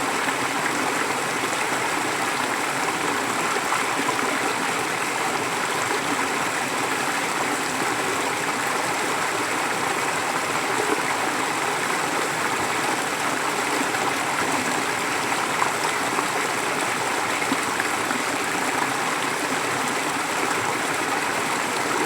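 A stream flowing steadily over rocks, a constant rushing babble of water.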